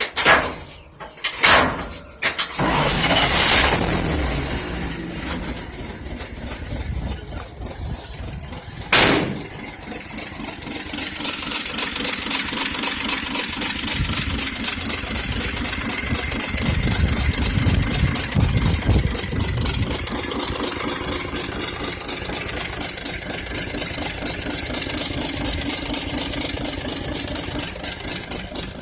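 1946 International K1 pickup's Green Diamond 213 six-cylinder engine cranking and catching in the first few seconds, then settling into a steady, rhythmic idle. It runs with a misfire on cylinders 3 and 5, which the owner puts down to pitted valves.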